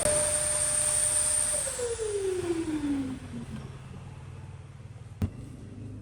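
A power tool's electric motor running at speed with a steady whine, then switched off and winding down, its pitch falling over about two seconds. A sharp click near the end.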